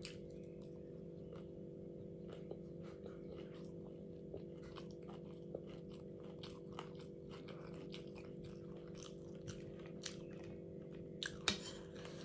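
Someone chewing and crunching food close to the microphone: a run of small crisp crunching clicks, with a couple of sharper crunches near the end.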